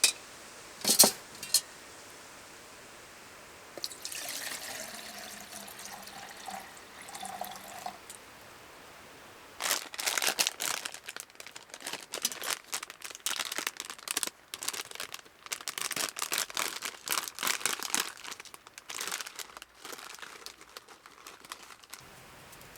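Handling sounds: a few sharp clicks, then liquid pouring for a few seconds, then a long stretch of crinkling and rustling with quick clicks and clatter.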